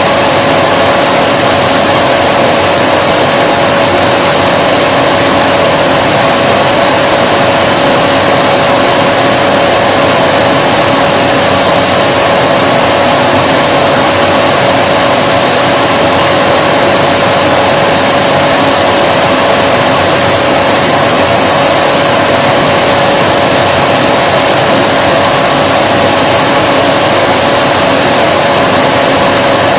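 Vacuum cleaner running continuously: an even rushing hiss of air with a steady motor whine underneath, unchanging throughout.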